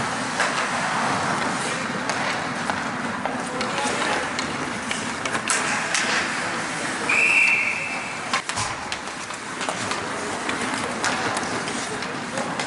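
A referee's whistle blown once, a short single blast about seven seconds in, over outdoor background noise and faint voices.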